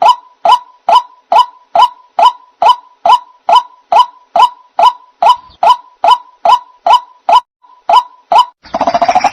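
White-breasted waterhen (ruak-ruak) call played as a bird-trap lure: a long run of single sharp notes repeated evenly, about two a second. Near the end it breaks into a denser, harsher stretch of calling.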